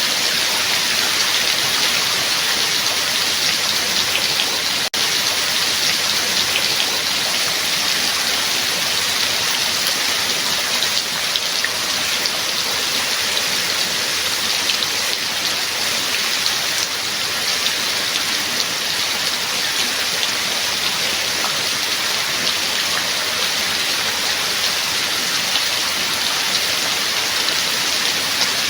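Steady rain falling, a dense even hiss of drops with fine individual ticks through it. The sound drops out for an instant about five seconds in.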